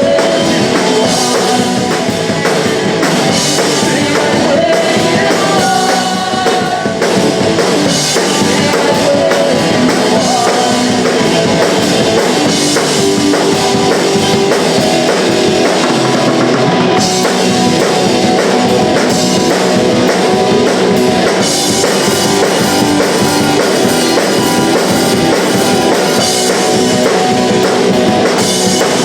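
A punk rock band playing a song live: a drum kit drives a steady beat under the band, loud throughout.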